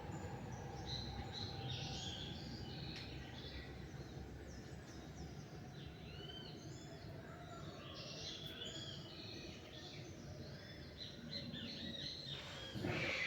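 Several small songbirds chirping and singing in short, arching notes over a steady low background rumble. Just before the end a brief, louder rush of noise stands out above the birdsong.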